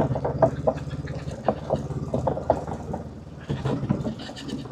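Motorcycle engine running steadily at low speed, with a run of irregular clicks and knocks over it.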